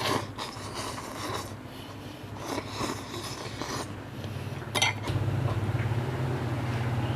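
Utensil clinks and scraping against a cup-noodle container while eating, with a sharp clink a little before the fifth second. A steady low hum runs underneath and grows louder after about five seconds.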